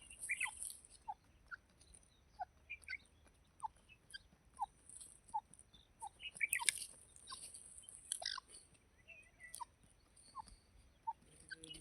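Faint, short bird call notes repeated about once or twice a second, from a titar (francolin, a partridge-like game bird), over a steady high hiss.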